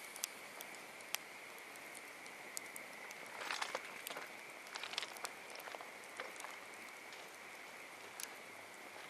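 Wood campfire crackling, with scattered sharp pops over a soft hiss and a brief flurry of louder crackles about three and a half seconds in.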